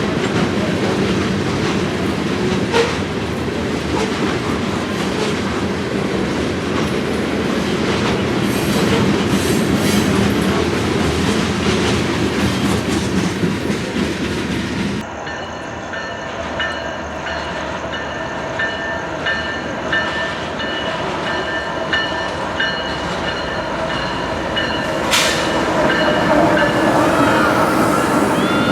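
Freight train cars rolling past, the wheels clicking over rail joints. About halfway through, the sound changes abruptly to a quieter rolling with several steady high-pitched ringing tones from the wheels and rails, and a single sharp click comes near the end.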